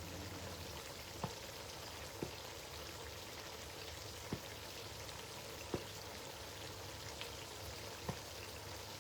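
Stew simmering in red oil in a pot: a faint steady hiss with about six soft, irregular pops.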